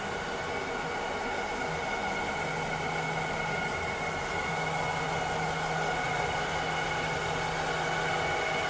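A cleaning robot's motors running steadily: an even whirring hiss with several steady whining tones over it. A low hum drops in and out, and the sound gets slightly louder near the end.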